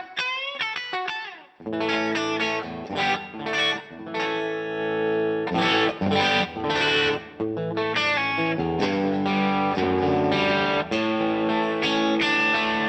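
Electric guitar played through the DVII amplifier with its gain and volume run up high, heavily distorted: notes sliding upward in the first second and a half, a brief break, then sustained chords ringing with short gaps between them.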